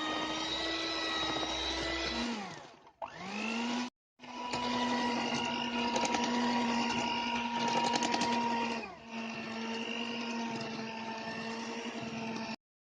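Electric mixer running at speed while beating buttercream, a steady motor whine. It winds down and spins back up a few seconds in, and its pitch drops a little about two-thirds of the way through.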